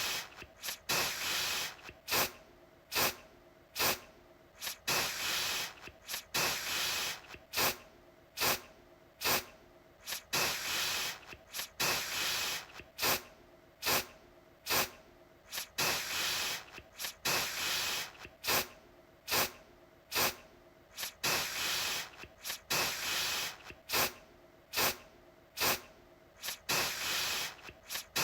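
Aerosol deodorant can spraying in repeated bursts: some quick sharp puffs, others longer hissing sprays of about a second, at uneven intervals.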